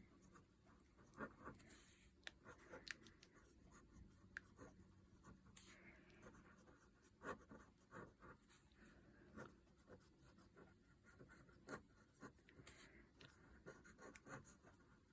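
Faint scratching of a fine liner pen nib on watercolour card as squiggly lines are drawn, with small irregular ticks.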